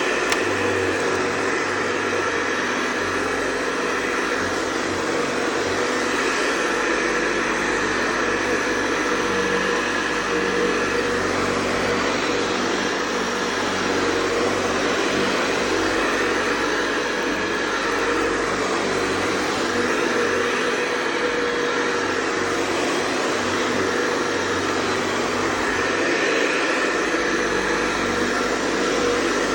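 Hoover Convertible Model 584 upright vacuum cleaner running steadily, a constant whine over the motor noise.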